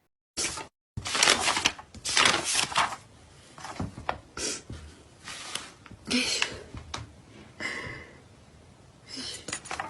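Irregular rustling and light knocks of objects being handled in a small room, a burst every second or so.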